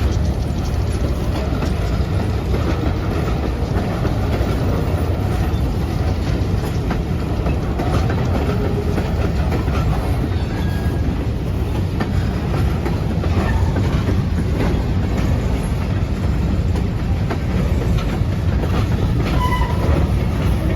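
Freight train of empty covered hopper cars rolling past, a steady heavy rumble with the clickety-clack of wheels over the rails.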